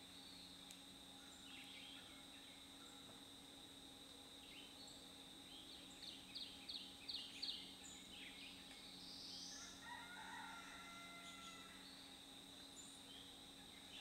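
Faint songbird calls: scattered high notes, loudest in a quick run of about six sharp notes about six seconds in, then a swooping note and some lower warbling notes. A steady high-pitched tone sits under them throughout.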